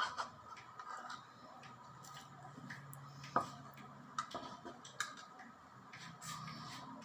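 Irregular light taps and clicks from food preparation, the sharpest about halfway through, over a faint steady hum.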